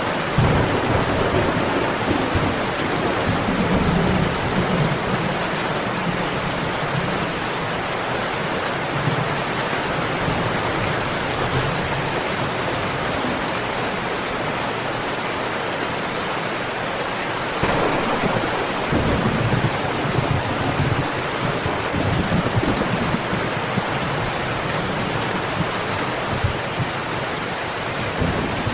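Steady heavy rain, a dense even hiss, with low rolling thunder rumbling near the start and again from about 18 seconds in.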